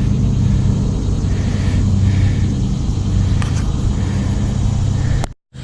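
Steady low rumble that cuts off abruptly near the end.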